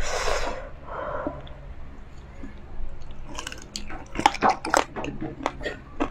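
Close-miked wet chewing and lip smacks of a person eating crispy pork binagoongan by hand: a short breathy noise at the start, then a quick run of sharp, wet mouth clicks from about three seconds in.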